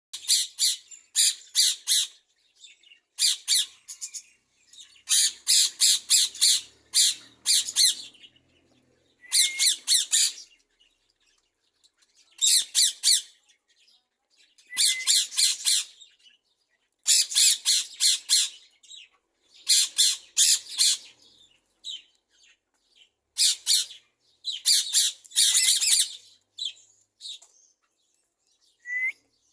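Parakeets squawking in repeated harsh, high-pitched bursts of a second or two each, with short gaps between them.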